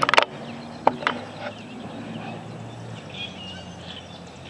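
Predator 6.5 hp single-cylinder four-stroke engine on a homemade mini bike idling through a new aftermarket muffler, with a steady, mellow, deep thump and a bubble to it. A couple of sharp clicks sound within the first second.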